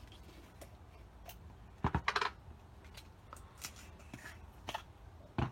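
Small sticks clicking and clattering as they are picked out and handled to stir little paint tubs, with a quick rattle of taps about two seconds in and a single knock near the end.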